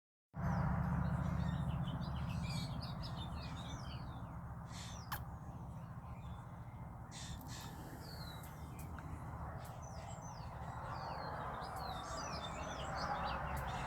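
Many small birds chirping and twittering in quick, overlapping calls, with a few louder, harsher calls around the middle, over a steady low background rumble.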